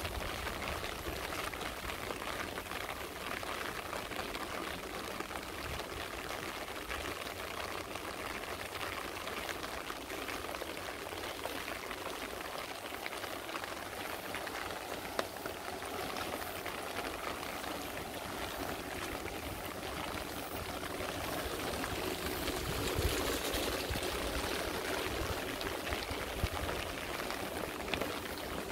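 Steady rain falling, with many small drop ticks over running water; it grows a little louder for a few seconds about three-quarters of the way through.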